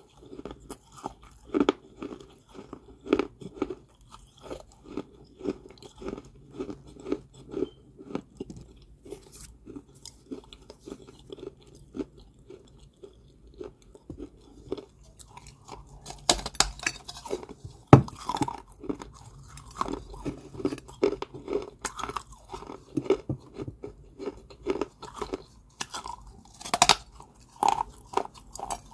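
A person chewing and crunching dry balls of Georgia white clay (kaolin) in steady chews, about two a second. A few sharper, louder crunching bites come in the second half.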